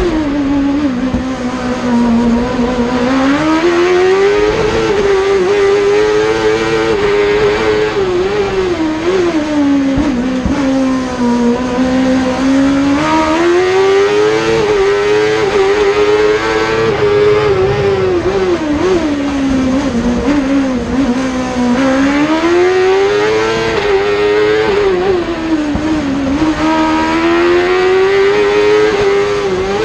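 Suzuki-engined Peugeot 106 racing car running hard on a slalom course. The engine note climbs and falls again and again as the car accelerates and then lifts off or brakes.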